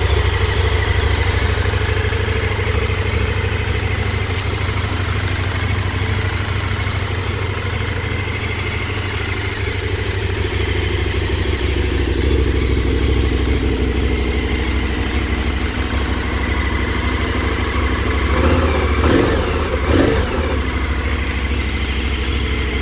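KTM 1290 Super Adventure S's 1301 cc V-twin engine idling steadily, briefly revved twice near the end.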